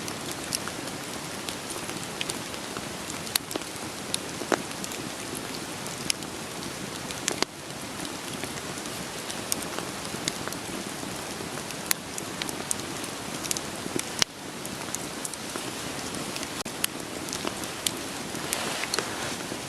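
Steady rain falling, with scattered sharp pops and crackles of burning firewood in a campfire. The level dips suddenly twice.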